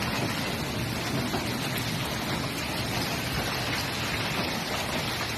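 Heavy rain pouring down onto hard surfaces, a steady dense hiss of countless drops.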